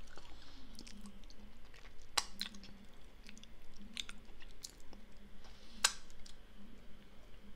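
A person chewing a mouthful of strawberry muffin close to the microphone, with a few sharp mouth clicks along the way.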